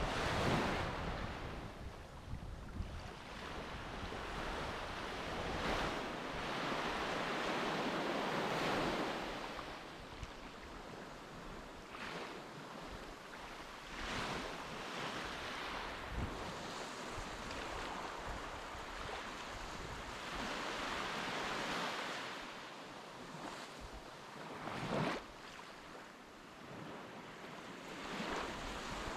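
Sea water washing and surging, swelling and fading every few seconds, with wind buffeting the microphone.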